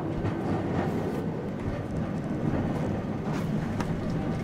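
Tram running, a steady rumble of the moving carriage heard from inside.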